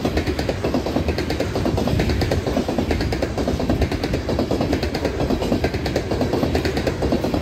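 Freight train rolling past: a rapid, steady clatter of car wheels on the rails over a low rumble.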